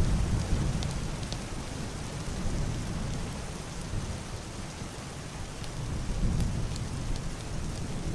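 Heavy rain on a roof and window: a steady hiss with scattered sharp drop ticks, under a low, muffled rumble of distant thunder that swells at the start and again about six seconds in.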